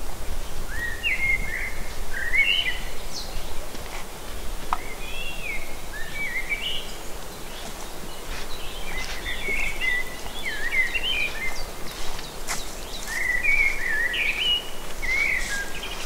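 Songbirds singing short, warbling phrases that rise and fall, repeated every second or two with brief pauses, over a steady low rumble.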